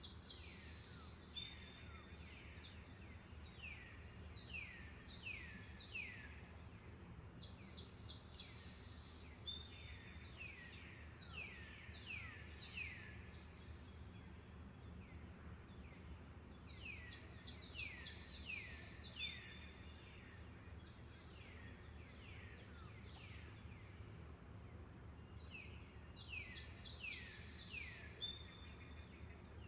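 A songbird sings bouts of five to seven quick downward-sliding notes, a new bout every eight seconds or so. Under it run a continuous high-pitched insect drone and a low, steady rush of flowing river water.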